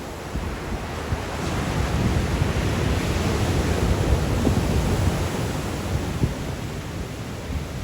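Sea waves breaking and washing on the shore in strong wind: one surge builds from about a second in, is loudest mid-way and eases off near the end, with wind buffeting the microphone as a low rumble.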